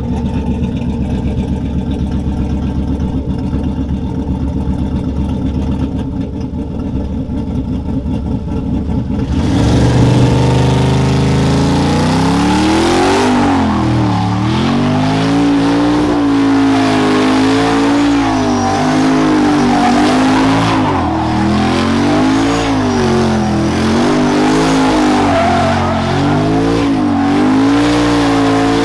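Truck engine running with a low steady rumble, then about nine seconds in revved hard and held high, its pitch swinging up and down over and over.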